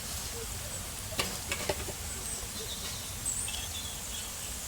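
Onions, whole spices and freshly crushed garlic frying in hot oil in a pot, a steady sizzle, with a few faint knocks about a second or two in.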